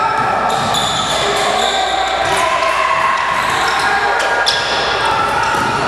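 Basketball game in play: a ball bouncing on the court and sneakers squeaking in short, high chirps, over the voices of players and crowd.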